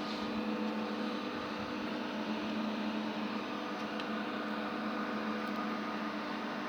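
Cooling fans running with a steady whir and a low electrical hum, with a faint click about four seconds in.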